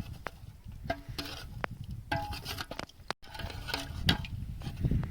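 Metal utensils clinking and scraping against metal cookware, with a few short ringing clinks.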